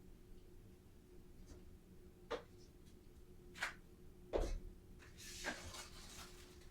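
A few short, separate knocks and clicks of household objects being handled, over a faint steady hum.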